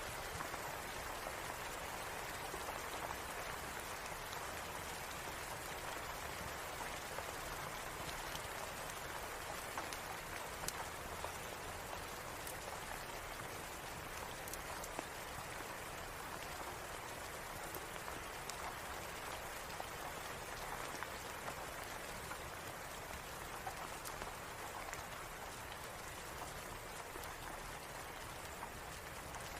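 Steady rain falling, an even hiss of drops, with scattered sharp clicks on top.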